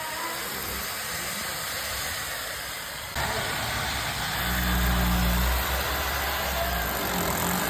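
A steady hiss, then a motor running with a low, steady hum that comes in strongly about four seconds in.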